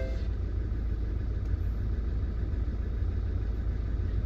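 Car engine idling steadily, a low, even rumble.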